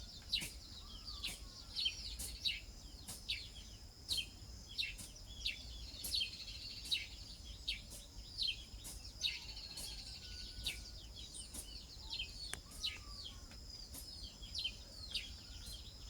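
Birds chirping: many short, high chirps that slide downward, one or two a second, over a steady high-pitched hum.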